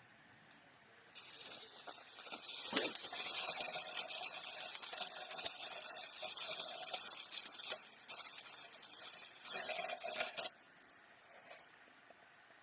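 Stew of pork and tomato sizzling and bubbling in a pot over a campfire: a steady hiss full of small crackles that cuts in about a second in and stops abruptly near the end.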